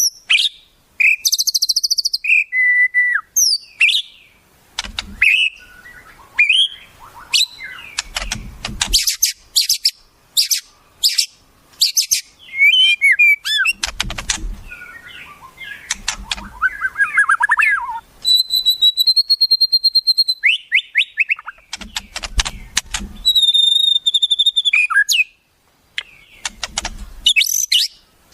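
Wild songbird calls played as a training recording for caged songbirds: a dense, varied run of quick chips, rapid trills and sweeping whistled notes. Twice in the second half, a long steady whistle is held for about two seconds.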